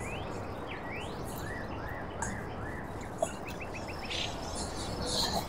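Small birds chirping: a string of short whistled notes that sweep up and down, with a quick run of about five ticking notes a little past the middle, over a steady background hiss.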